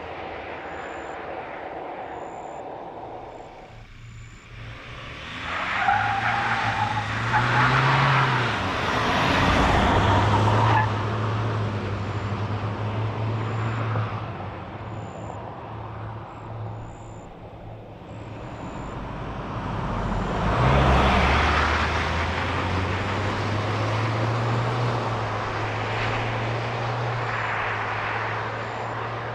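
Ford Ranger Raptor's 2.0-litre twin-turbo diesel four-cylinder pulling hard under acceleration twice. The engine note rises and the tyre and road noise swells with each run, easing off in between.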